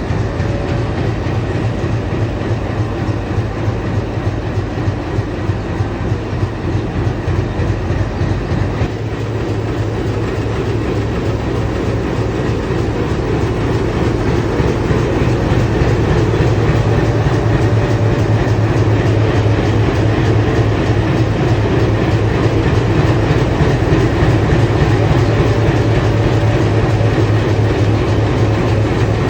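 WDG3A diesel locomotive's ALCO 16-cylinder engine running: a continuous rapid chugging over a deep steady hum, growing louder about halfway through.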